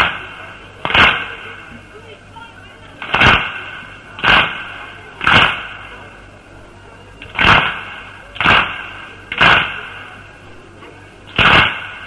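A crowd of mourners beating their chests in unison (latm), in sets of three strikes about a second apart with a pause of about two seconds between sets. This is the beat that keeps time for a Husayni elegy.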